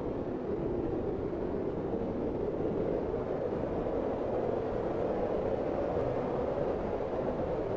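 Blizzard wind blowing hard and steadily: a low, even rush of noise with no gusts or breaks.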